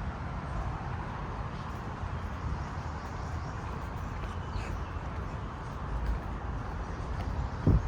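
Steady outdoor noise with a low rumble, and a short dull thump near the end.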